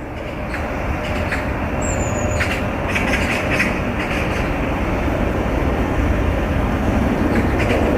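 Road roller compactor running with a steady low mechanical rumble that grows louder over the first few seconds, with scattered light clicks and rattles.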